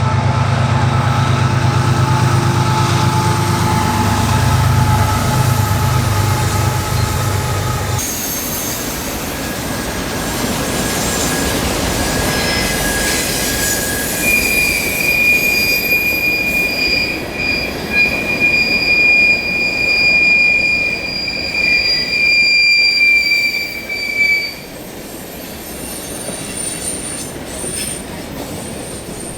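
Diesel-hauled train passing close by: the locomotive's engine drone for the first several seconds, then the cars rolling past, with a long high-pitched wheel squeal from about halfway through until near the end.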